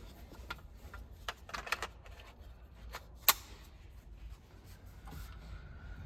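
Scattered light clicks and knocks of parts being handled during interior trim work, with one sharp snap a little over three seconds in.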